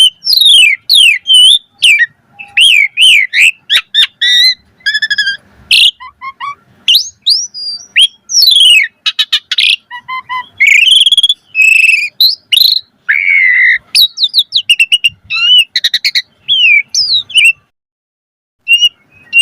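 Asian pied starling (jalak suren) singing a fast, varied song of whistles, rising and falling slurred notes and quick chirps, broken by a pause of about a second near the end.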